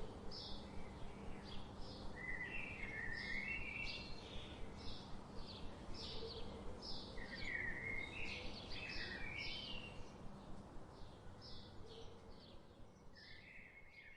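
Birds chirping: many short, quick chirps, several a second, over a steady background hiss, growing fainter toward the end.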